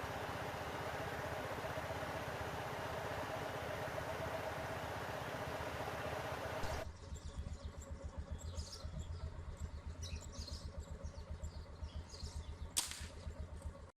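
A motor vehicle's engine running with steady road and wind noise, then an abrupt change to an engine idling with an even low throb while small birds chirp. One sharp crack sounds near the end.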